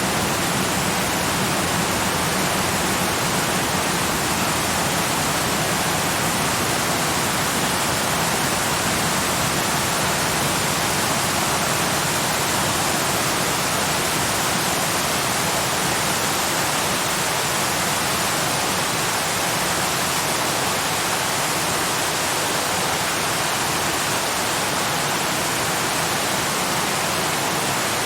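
Steady, unbroken rush of a waterfall, an even hiss of falling water with no change in level.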